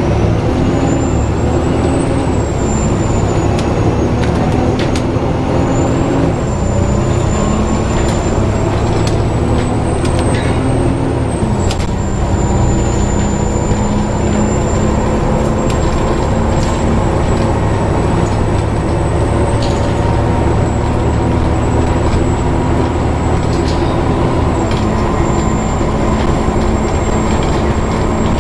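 Inside a Volvo B7TL double-decker bus: a thin, high-pitched squeal that rises over the first couple of seconds and then holds with a slight waver, above the steady hum of the diesel engine and road noise. The squeal is the kind linked to the bus's engine cooling fan, the so-called 'hoover' sound.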